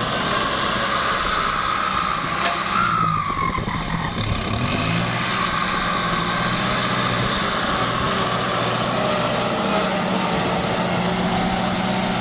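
Kubota tractor's turbo diesel engine running steadily under load while turning rice stubble into the soil, with a steady turbo whine above the engine note that briefly rises and falls about three seconds in.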